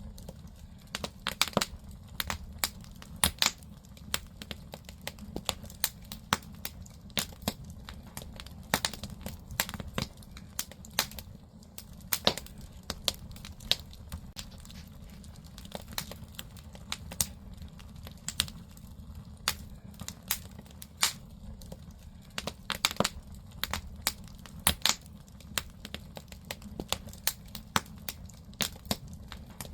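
Firewood burning in a traditional Korean agungi firebox, crackling with irregular sharp pops over a low, steady rumble of the fire.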